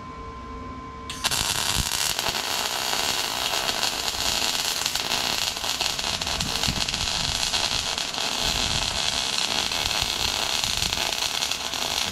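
Gas-shielded MIG welder running a bead on steel: a steady crackling sizzle from the arc that starts suddenly about a second in and carries on without a break.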